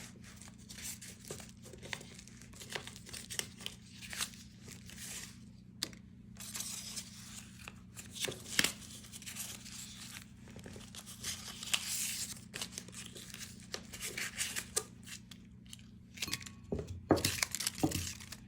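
Small slips of paper being folded and creased by hand, with irregular crinkling and rustling over a faint steady hum.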